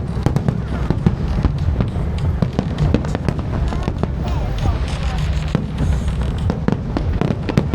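Aerial fireworks going off in a dense, continuous barrage of sharp bangs and crackles over a heavy low rumble.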